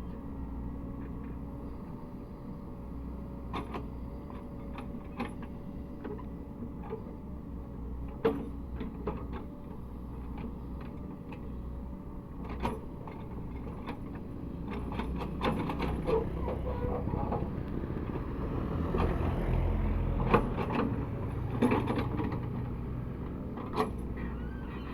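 Cat 307E2 mini excavator working: its diesel engine runs steadily under a faint wavering whine, with sharp metallic knocks and creaks scattered through. The engine grows louder, as if under load, about two thirds of the way in.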